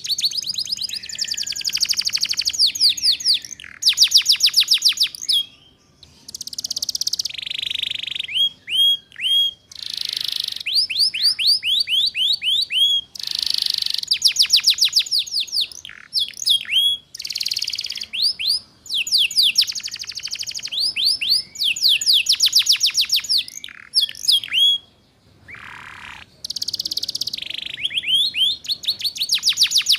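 Domestic canary singing: fast trilled rolls (ngeriwik) alternating with runs of short slurred whistles and a few held buzzy notes, broken by brief pauses.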